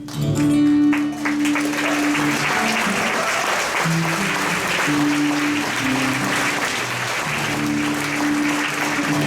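Audience applause at the end of a live song, starting about a second in, with held guitar notes still ringing over it in places.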